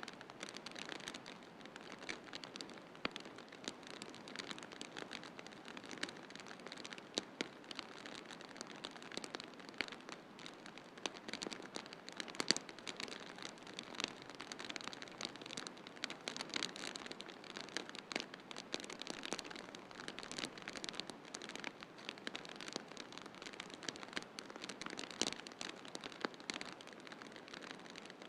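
Wood fire crackling in a fireplace, with many irregular sharp pops over a steady hiss of snowstorm wind.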